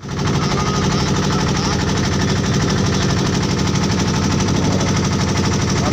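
A boat's engine running steadily, with a rapid, even beat.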